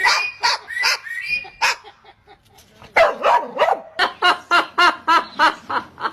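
Dog barking in a series of short, sharp barks, pausing briefly about two seconds in and then barking rapidly, about four barks a second.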